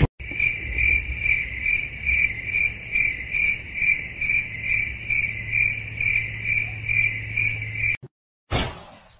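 Cricket chirping: a high, even chirp repeating about three times a second over a low hum. It cuts off suddenly about eight seconds in.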